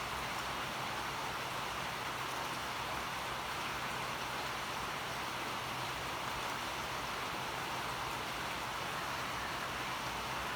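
Steady, even hiss with a faint low hum beneath it and no change in level.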